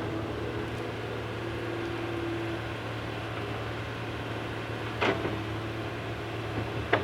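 Excavator engine running with a steady low drone, with two sharp knocks, one about five seconds in and one near the end.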